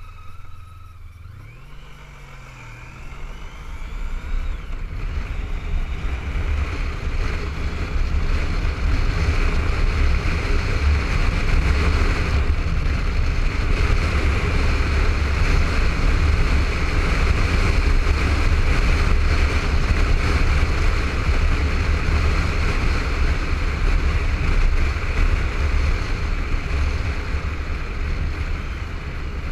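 Honda ST1300 motorcycle's V4 engine pulling up from low speed, its pitch rising in the first few seconds. Wind rush on the helmet-mounted camera then builds over several seconds and holds steady at cruising speed.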